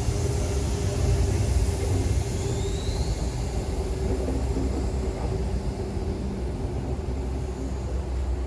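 Passenger train running, heard from on board: a loud steady low rumble with a faint steady hum, and a brief rising whine about two and a half seconds in.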